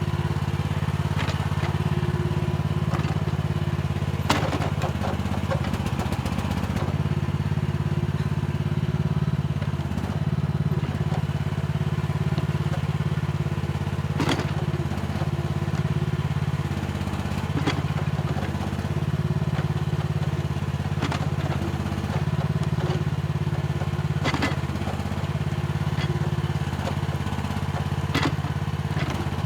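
Mini excavator's engine running steadily under working load, its note dipping slightly now and then, with a few sharp knocks and clanks from the machine and bucket spread through.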